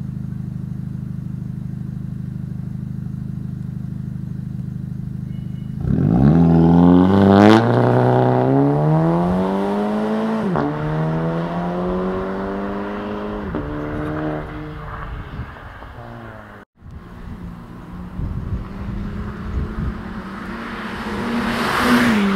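Audi TT Coupé's turbocharged 2.0-litre four-cylinder through a Flowmaster exhaust, idling steadily, then accelerating hard about six seconds in. Its pitch climbs and drops back twice as it shifts up, then settles lower. It revs up again near the end after a brief dropout.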